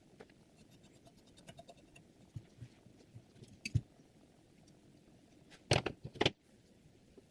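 Handling of a guided knife-sharpening rig: scattered light clicks, then two louder short knocks about six seconds in.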